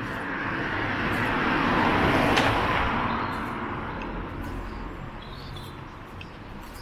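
A car driving past: its engine and tyre noise builds to a peak about two seconds in, then fades away.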